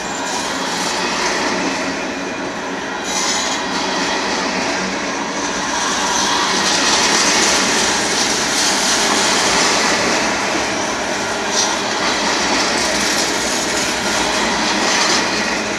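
Union Pacific grain train's covered hopper cars rolling past, a steady, loud rumble and hiss of steel wheels on the rails that grows louder and brighter for a few seconds in the middle.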